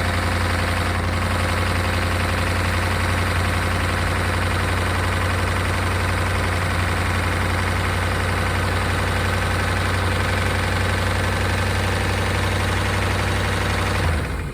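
1992 Chevrolet Caprice wagon's small-block V8 idling steadily with noisy lifters, from an engine that had sat seized in a field. It is switched off near the end and stops abruptly.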